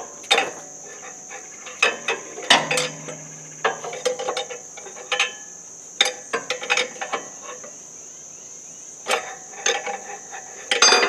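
Irregular metallic clanks and knocks of hand tools working on tractor engine parts, one about two and a half seconds in that rings briefly, over a steady high chirring of crickets.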